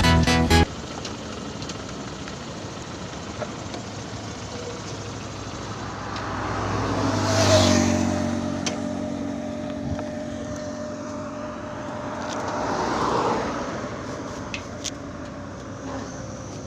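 Background music cuts off under a second in, giving way to road traffic. A motor vehicle passes, its engine growing louder and fading with a peak about seven and a half seconds in, and a second vehicle passes about five seconds later.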